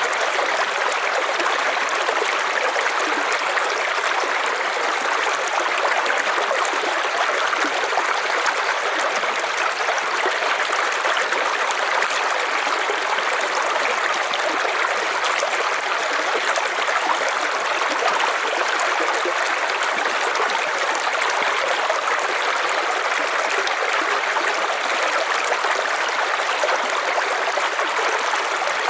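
River water flowing and rushing over rocks, a steady, even rush with no change.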